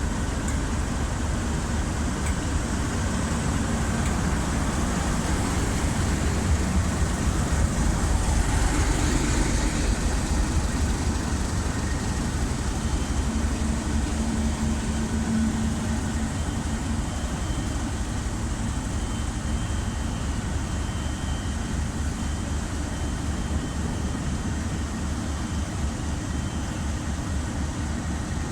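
A train running, a steady rumble that swells a little for a few seconds, then settles.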